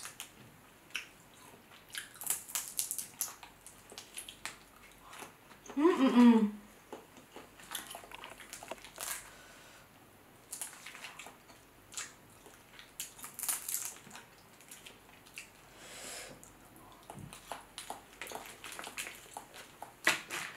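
Close-miked eating of boiled crawfish and shrimp in sauce: wet chewing, lip smacks and sucking, in many short irregular clicks. A short hummed "mmm" sounds about six seconds in.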